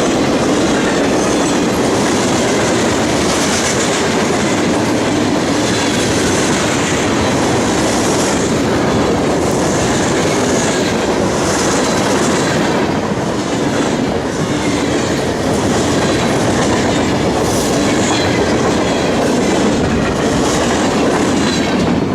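Train cars rolling past close by, a loud, steady rumble with the wheels clacking over the rail joints at regular intervals.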